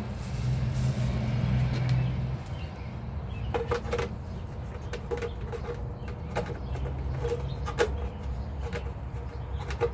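Scattered light plastic clicks and knocks as the parts of a Dirt Devil Simpli Stick vacuum are handled and refitted, over a steady low hum that is louder for the first two seconds or so.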